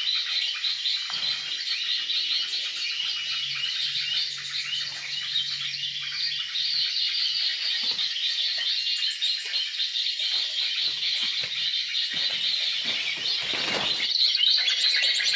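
Birds chirping in a dense, continuous high chorus, with a short rustle about fourteen seconds in.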